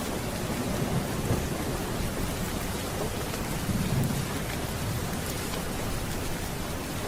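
Steady rain with a low rumble of thunder that swells about four seconds in.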